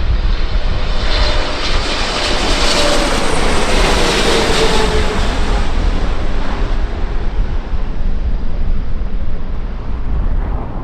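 Airliner flying past, its engine noise swelling to a peak about four seconds in, with a falling whine, then fading away. A steady low rumble of wind on the microphone runs underneath.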